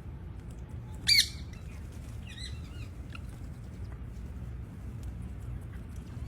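Parrot squawking: one loud, sharp squawk about a second in, then a fainter, shorter call about two and a half seconds in, over a steady low background rumble.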